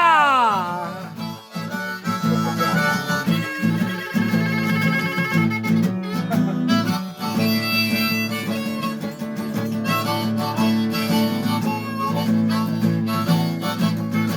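Blues harmonica playing an instrumental passage over guitar accompaniment, with the end of a sung note fading out at the very start.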